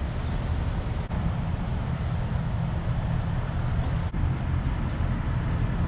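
Steady road noise from vehicles: a low, fluttering rumble with no distinct events.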